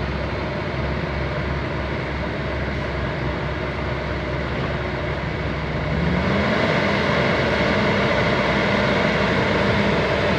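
Heavy diesel engine of earthmoving machinery running under load. About six seconds in, its revs rise and it runs louder and higher from then on.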